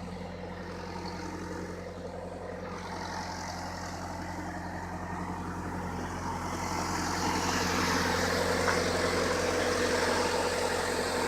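Dustless blasting rig at work: its engine drones steadily with an even low hum, and the hiss of the blast builds up about halfway through and stays loud.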